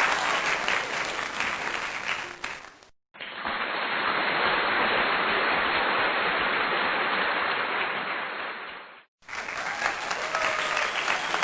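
Crowd applause, laid in as three spliced sections: it cuts out abruptly for a moment about three seconds in and again about nine seconds in, the middle section sounding duller.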